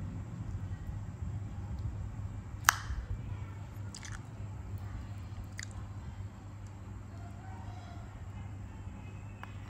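A person chewing food, with a few sharp clicks, the loudest about two and a half seconds in, over a steady low hum.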